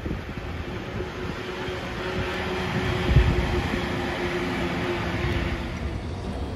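A train running past, a steady rolling noise that swells and eases off, with a faint steady hum held through most of it. Low gusts of wind buffet the microphone.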